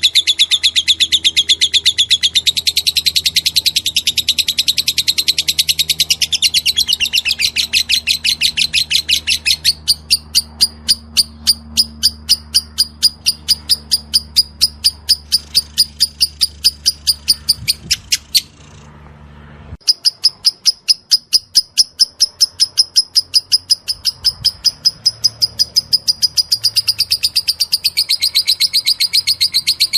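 Lovebird 'ngekek': a long, rapid chattering run of high chirps that breaks off briefly a little past halfway, then resumes.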